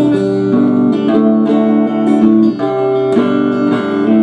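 1966 Fender Telecaster electric guitar playing a run of strummed chords, each ringing on, changing every second or so.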